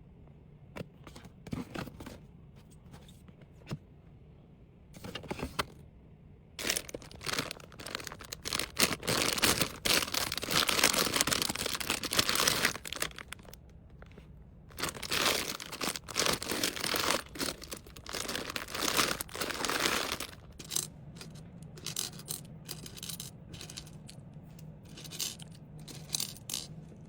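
Plastic packaging being handled: crinkling and rustling with small clicks and taps, loudest in two long spells of rustling through the middle.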